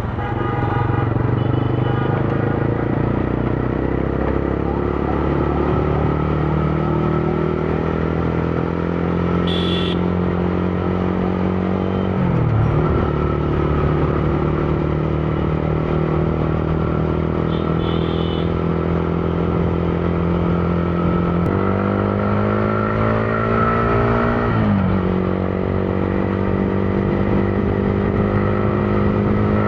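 Motorcycle engine running under way, its pitch slowly climbing as it pulls and dropping sharply twice at gear changes. Two short high beeps cut in briefly.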